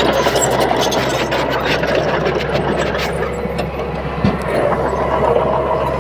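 Crawler bulldozer's diesel engine running steadily with a low hum, with scattered clicks and a short knock about four seconds in.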